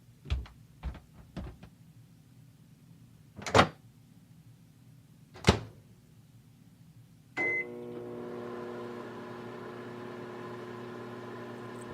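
Microwave oven in use: a few soft knocks, two loud clunks of the door, a short high keypad beep about seven seconds in, then the oven starting up and running with a steady hum to warm the hot water bottle.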